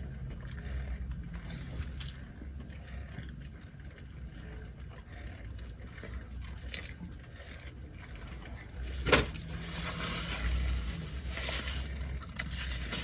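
Eating close to the microphone: small chewing and food-handling clicks over a steady low rumble, with a sharp knock about nine seconds in followed by a few seconds of rustling.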